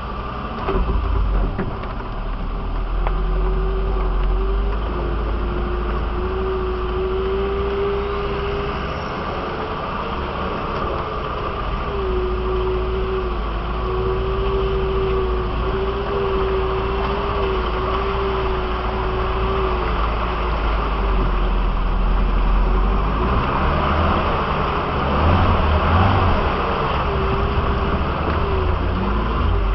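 Off-road 4x4's engine running at low speed as the vehicle crawls along a muddy track, heard from inside the cab: a steady low rumble with a whine that wavers up and down in pitch. It gets somewhat louder and rougher about three-quarters of the way through.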